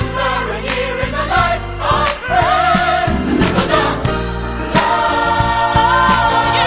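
Music: a choir and a solo voice singing melodic runs over a band with a steady drum beat.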